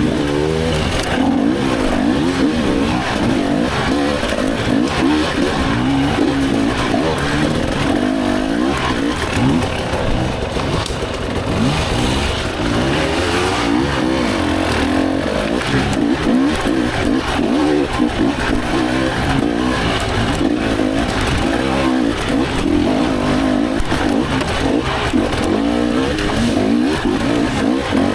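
Dirt bike engine ridden hard, its revs swinging up and down constantly as the throttle is worked without a let-up.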